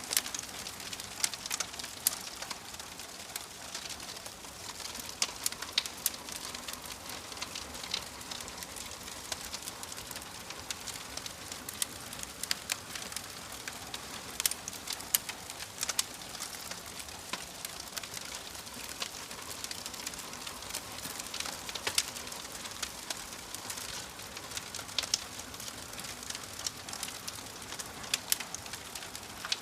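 Wood fire burning in a fireplace: a steady soft hiss with frequent sharp crackles and pops at irregular intervals.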